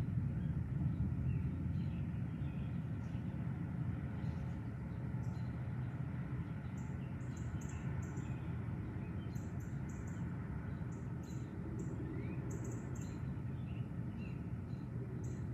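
Birds chirping outdoors, with a couple of rising calls and bursts of short high chirps in the second half, over a steady low rumbling storm-evening background.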